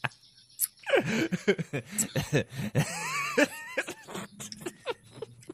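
Close mouth and eating sounds of a person eating ripe mango: wet smacking and chewing clicks. From about a second in to past three seconds comes a run of throaty, cough-like vocal noises.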